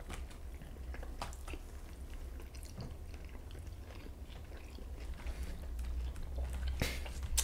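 People chewing and biting crispy breaded chicken strips, with faint scattered clicks and one sharper click near the end.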